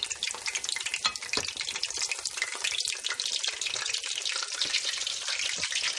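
Crumb-coated cubes of Brie sizzling as they fry in hot vegetable oil, a dense steady crackle, while more pieces are set into the pan by hand.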